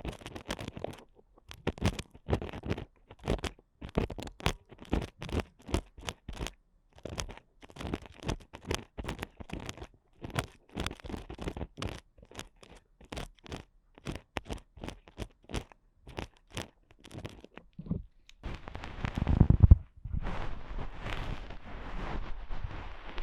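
Ear picks scraping and scratching inside a binaural microphone's ear in short quick strokes, several a second. About nineteen seconds in comes a louder low rubbing on the microphone, then denser, continuous scratching.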